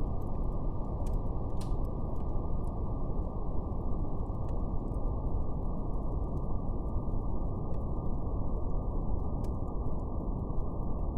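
Steady brown noise, an even low hiss cut off above the lower mid range, with a few faint fire crackles now and then.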